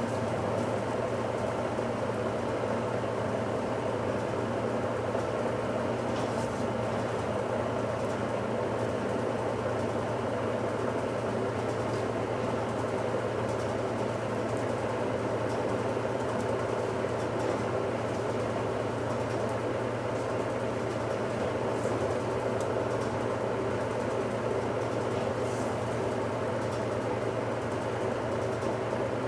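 1969 Westinghouse washing machine running steadily mid-cycle: an even motor and drive hum with no breaks.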